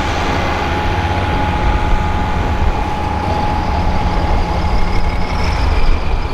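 Modified farm pulling tractor's engine running loud and steady, with a high whine held over the low engine noise.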